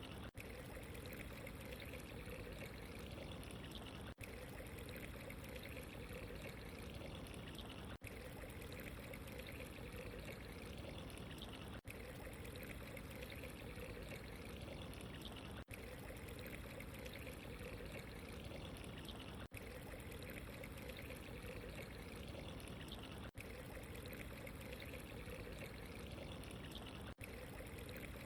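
Steady ambience of running, trickling water, with a brief dip in the sound about every four seconds.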